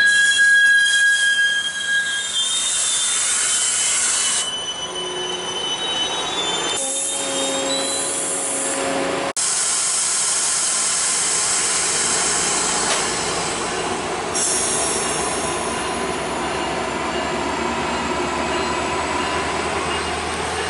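A train rolling by on the rails with its wheels squealing: several shrill tones that shift in pitch and come and go over a steady rushing rumble, broken by a brief dropout about nine seconds in.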